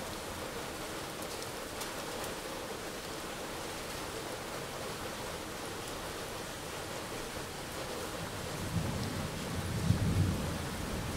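Steady heavy rain falling, with a low rumble of thunder building about eight seconds in and peaking near the end.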